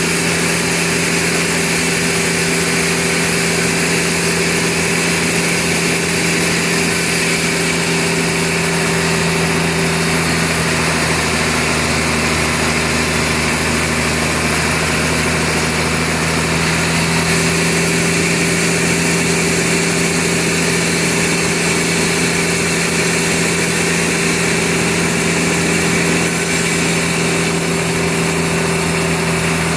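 Sawmill machinery running steadily with a constant engine-like drone, without clear breaks or changes.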